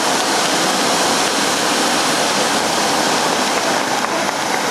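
Dozens of small firework fountains in a light picture, burning together with a steady, loud hiss.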